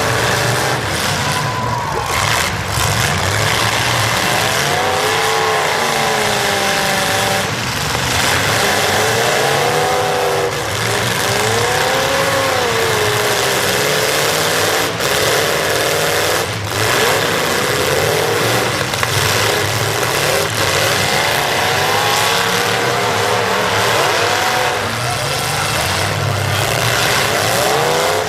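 Demolition derby cars' engines revving up and down, several at once, with a few sharp bangs of cars colliding.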